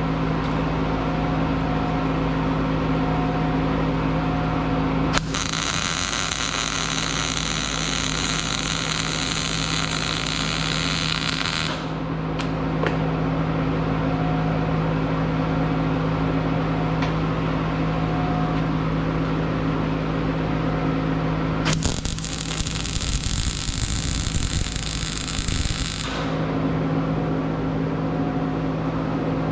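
Miller-Matic MIG welder arc crackling and hissing in two runs, about six seconds long from five seconds in and about four seconds long from twenty-two seconds in, laying weld to fill a gap. Between the runs there is a steady electrical hum.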